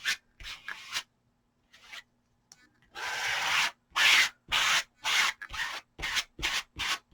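A plastic card applicator scraping Odicoat waterproofing gel onto a canvas hat: a few short strokes, a pause, then a steady run of scraping strokes about two a second from about three seconds in.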